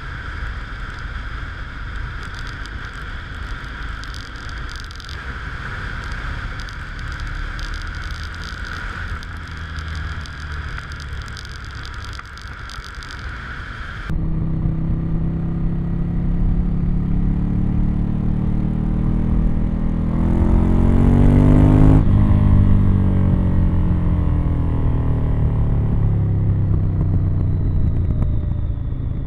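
Ducati Monster 1100 EVO's air-cooled L-twin, on its stock exhaust, running while riding. For the first half it sounds thin and muffled, with hiss and a steady whine from the GoPro's waterproof case. About halfway through it cuts abruptly to a fuller, louder sound: the revs climb to a peak, then drop as it decelerates.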